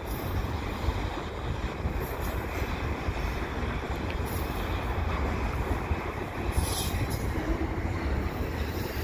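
Freight train's double-stack container cars rolling past, a steady rumble of steel wheels on the rails.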